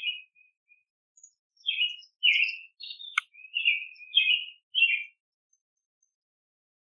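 Small songbirds chirping in a quick run of short notes, with a single sharp click about three seconds in.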